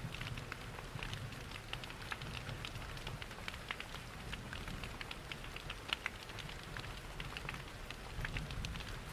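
Steady rain mixed with a crackling fireplace: an even hiss dotted with frequent small sharp pops and ticks, over a low steady rumble.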